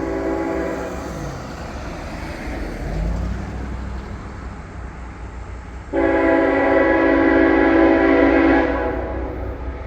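Locomotive air horn, a K5HL five-chime on a GE AC44CW, sounding for a grade crossing: a blast that dies away about a second in, then a long loud blast from about six seconds to nearly nine seconds. A low diesel rumble from the approaching train builds underneath.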